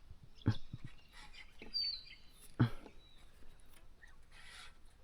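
A few short knocks and rubbing scrapes, the loudest about half a second and two and a half seconds in. A bird chirps once briefly about two seconds in.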